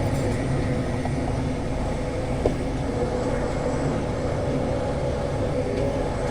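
Case IH Maxxum 150 tractor's diesel engine running steadily while driving, with a single light click about two and a half seconds in.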